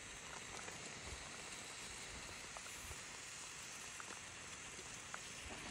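Outdoor wood cooking fire: a faint steady hiss of sizzling or simmering, with a few small scattered crackles.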